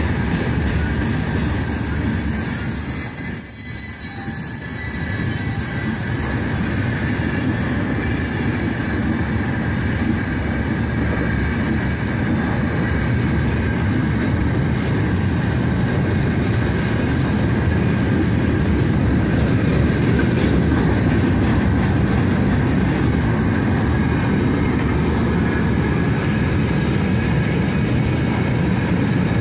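Freight train's open-top gondola wagons rolling past: a steady rumble and clatter of steel wheels on the rails, with a thin steady wheel squeal above it. The noise dips briefly about three seconds in, then holds steady.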